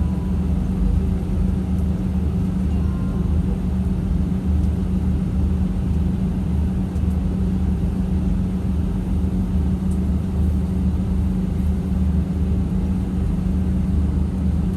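Jet airliner cabin noise on the ground before takeoff: engines running at idle, a steady low rumble with a constant hum.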